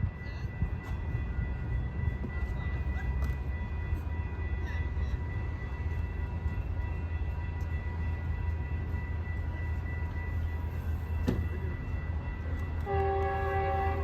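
Metrolink commuter train pulling into the station with a steady low rumble, and its horn starts sounding about a second before the end.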